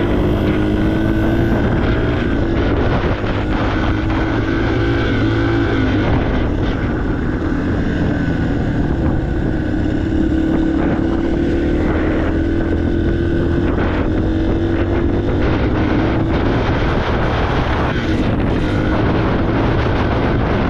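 Yamaha TTR 230 dirt bike's single-cylinder four-stroke engine running under way, its pitch rising and falling a little with the throttle, with wind buffeting the microphone.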